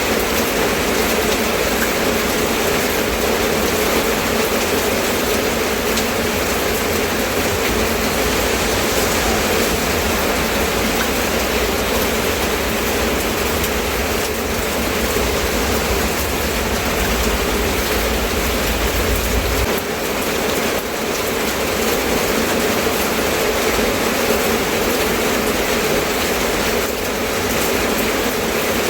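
Steady rain falling, an even hiss and patter. Under it runs a low rumble that stops about two-thirds of the way through.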